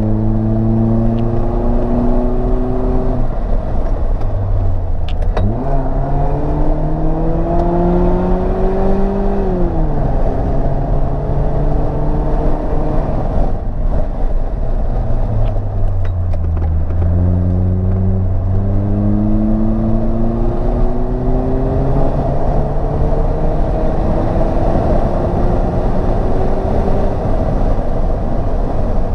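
Mercedes-Benz SLK R170's engine through its aftermarket exhaust, heard from inside the cabin on track. The revs climb, jump sharply about five seconds in, then fall away about ten seconds in as the car slows for a corner. From about seventeen seconds they climb steadily again under acceleration.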